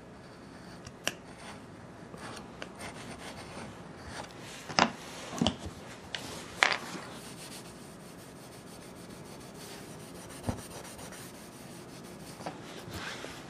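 Hand rubbing and scraping on the surface of a plywood floor being repaired, a faint steady scratching with a few short, sharper scrapes about five seconds in, near seven seconds and again near ten and a half seconds.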